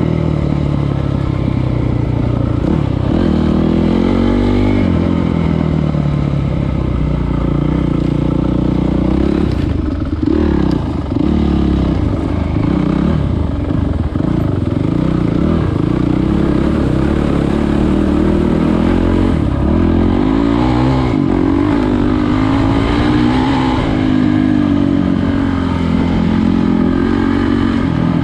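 Trail motorcycle engine running under load, its pitch rising and falling over and over as the rider opens and closes the throttle and changes gear.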